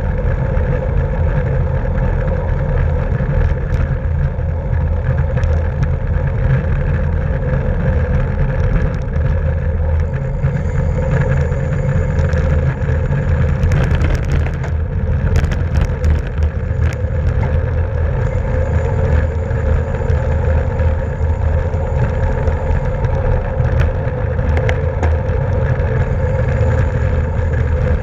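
Wind rushing over the microphone of a road bike ridden at race speed: a steady, loud low rumble, with a run of sharp clicks about halfway through.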